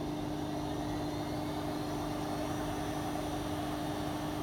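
AEG L86810 washing machine running its service-mode drain-and-spin test: a steady hum with a faint whine rising slowly in pitch as the drum starts to spin up.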